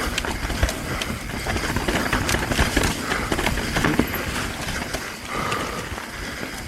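Mountain bike clattering down a rough, rocky trail: tyres striking rocks and roots, with chain and frame rattling in irregular knocks.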